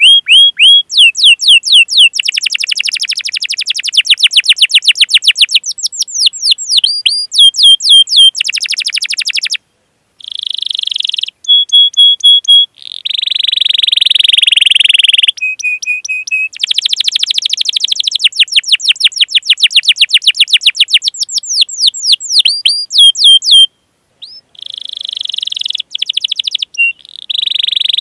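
Domestic canary singing: long runs of rapid repeated chirps and trills, broken by held rolling phrases, with a few brief pauses.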